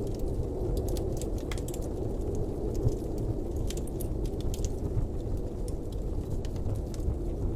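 Blizzard wind blowing with a steady low rumble, with scattered light ticks and crackles over it.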